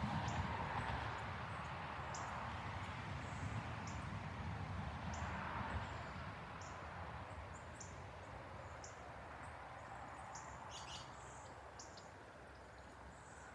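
Small birds giving short, high chirps every second or so, coming in a quick cluster near the end, over a faint steady outdoor hiss and low rumble that fades about halfway through.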